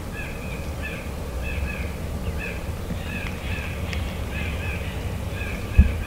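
A bird calling in a steady series of short notes, about two to three a second, over a low rumble on the microphone, with a single thump near the end.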